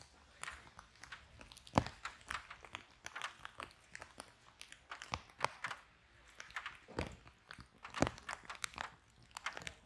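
Fire in a fireplace crackling, with many small irregular snaps and a few sharper pops: one a little under two seconds in and two more late on.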